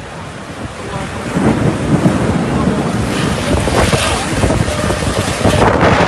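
Strong wind gusting and buffeting the microphone, a heavy low rumble that grows louder about a second in and stays loud.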